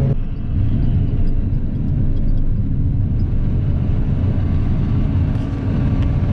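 Combine harvester running steadily, heard from inside the cab as a loud, even low rumble while the grain tank unloads.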